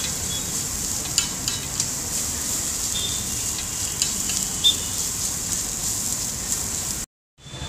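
Egg bhurji sizzling on a large flat tawa while a metal spatula stirs, scrapes and chops it, with sharp clicks of metal striking the griddle now and then. The sound cuts off suddenly about seven seconds in.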